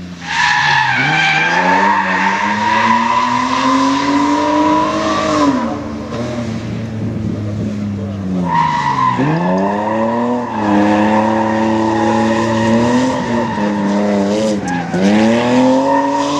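BMW E30 drifting: the engine runs at high revs, dipping and climbing again three times, while the tyres squeal in a steady high screech. The squeal breaks off for a few seconds about a third of the way in.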